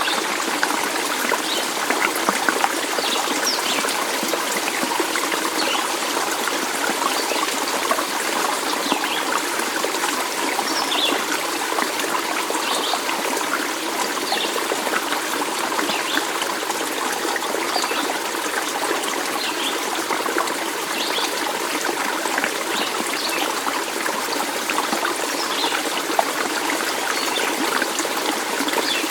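Stream water trickling and babbling steadily, with brief high plinks of water scattered through it.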